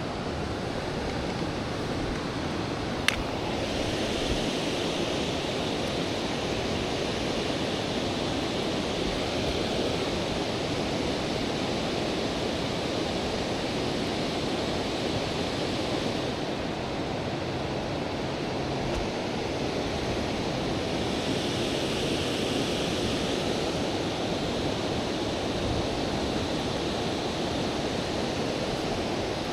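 River water rushing steadily over rocks around a wading angler, a constant hiss. There is one sharp click about three seconds in.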